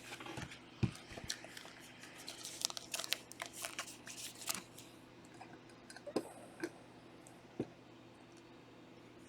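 Trading cards and their pack wrappers being handled at a table: a quick run of crinkling and light clicks for the first four seconds or so, then a few separate taps.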